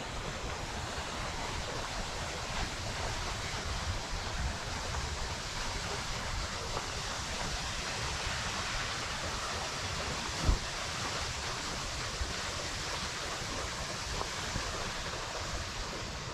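Waterfall rushing steadily, with wind buffeting the microphone. A single thump about ten seconds in.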